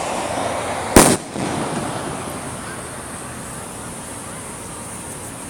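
Fireworks going off: one loud sharp bang about a second in, followed by a fading rumble over a steady background of noise.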